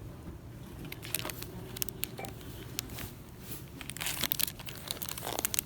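Crinkling and crackling of plastic packaging being handled, in irregular sharp bursts that get busier near the end, over a steady low background hum.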